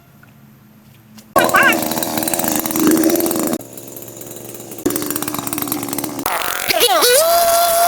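A motorised power tool running in short spliced segments, starting suddenly after a quiet second and a half; near the end its pitch dips and then climbs steadily as it revs up.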